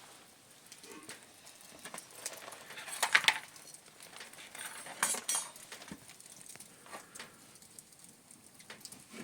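Scattered small knocks and clinks, with a louder cluster about three seconds in and another about five seconds in.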